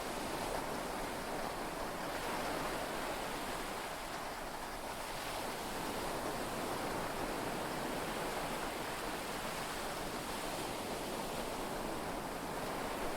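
Heavy rain and sea waves heard from inside a yacht cabin: a steady hiss that swells gently in loudness, with no thunder.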